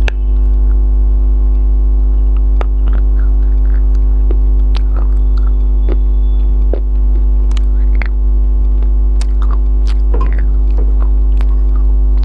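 Loud steady electrical mains hum with a ladder of overtones, over which come scattered short clicks and smacks from eating biryani.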